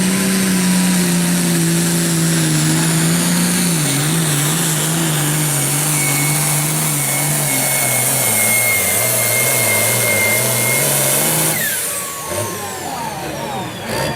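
Limited Pro Stock pulling tractor's turbocharged diesel engine at full throttle under the sled's load, its pitch sinking slowly as the revs drop, with a high whine over it. About eleven and a half seconds in the throttle is shut off and the engine winds down with falling whistles.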